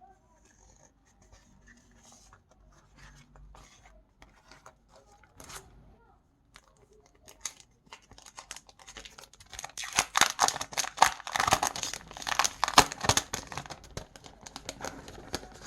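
Stickers and their paper and plastic sheets being handled: soft taps and rustles at first, then from about ten seconds in a few seconds of dense crinkling and tearing as sheets are peeled and crumpled.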